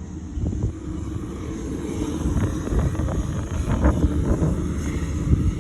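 Airplane engine rumble growing steadily louder, with wind buffeting the microphone.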